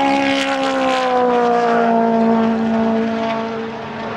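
Race car engine running at high revs, its note falling slowly and easing slightly near the end.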